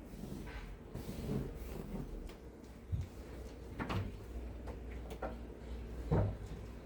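A handful of scattered knocks and clunks of household things being handled during cleaning, the loudest a little after six seconds in, over a low steady hum.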